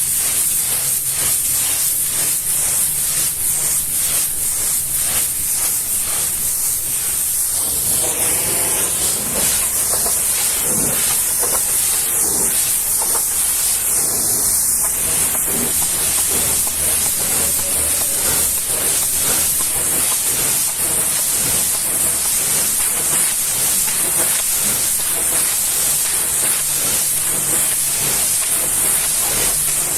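High-pressure washer jet spraying water, a steady loud hiss with a low hum underneath.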